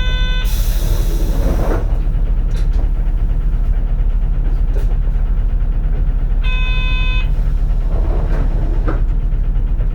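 Cabin sound of a 2004 CNG (natural-gas) city bus running, its engine a steady low rumble. A burst of air hiss comes about half a second in, and an electronic chime sounds briefly twice: at the start and about six and a half seconds in.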